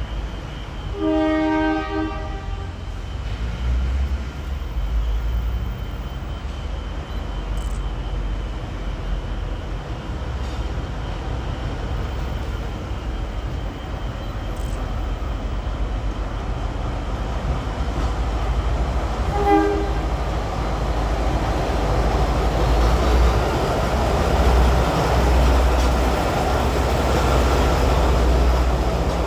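Former Emu Bay Railway 11 class diesel locomotive sounding its horn for about a second near the start and giving a brief second toot about two-thirds through, over the steady low rumble of the train. The rumble grows louder in the last third as the train draws closer.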